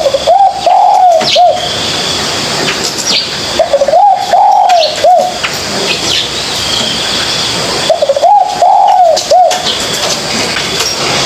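Spotted dove cooing: three phrases, each a short run of rounded coo notes lasting about a second and a half, about four seconds apart.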